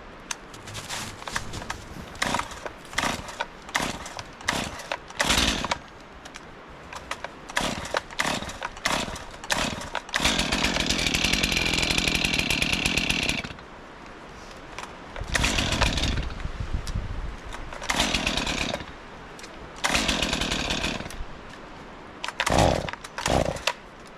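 Chainsaw being started in the cold. After a spell of clicks and knocks it catches and runs steadily for about three seconds, then cuts out. Several shorter bursts follow; the saw is hard to start in the cold.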